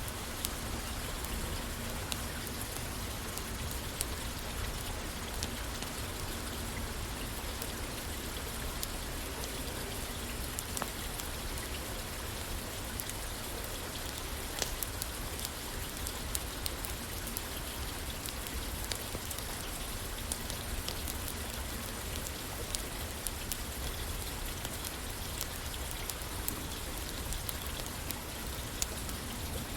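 Steady rain pattering on a roof, with many scattered sharp clicks and ticks through it.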